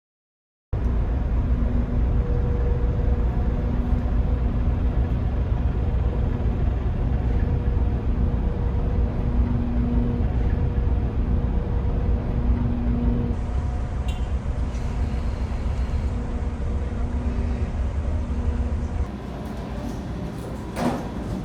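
Steady low engine rumble of a large vehicle or vessel, with a faint on-and-off hum above it. It drops in level a couple of seconds before the end, where a few clicks and knocks come in.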